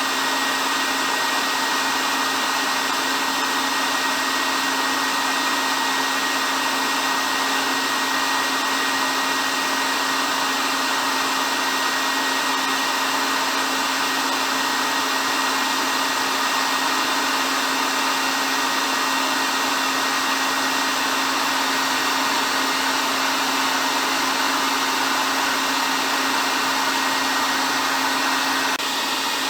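Hair dryer running steadily: a constant rush of blown air over a steady motor hum.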